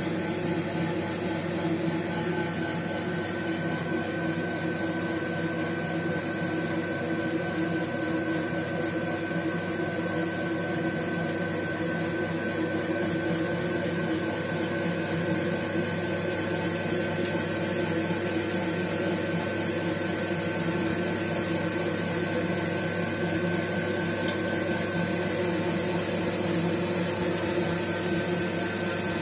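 Baxi gas boiler running with a steady mechanical hum, with a few held tones in it.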